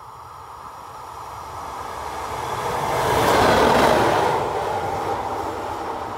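FS class E652 electric locomotive and its train running through at speed. The rumble and rush of air build steadily to a peak about three and a half seconds in as the locomotive passes close by, then fade as it goes away.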